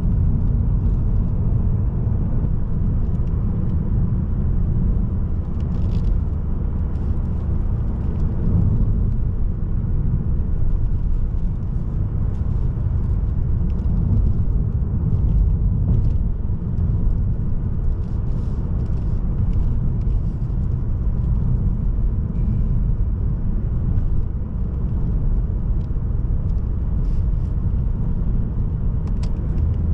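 Mazda3 sedan with a 1.8 L diesel engine driving at a steady speed: an even, low rumble of engine and road noise with faint scattered ticks.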